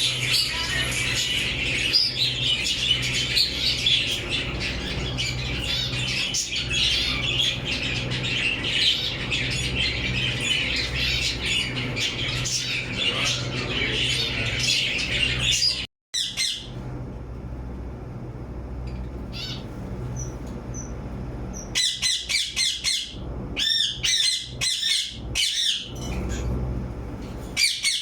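Aviary flock of budgies and other small parrots chattering and chirping busily and without pause; it breaks off suddenly about halfway through. In the last third a parrot gives loud, repeated harsh squawks over quieter chatter, with a steady low hum underneath throughout.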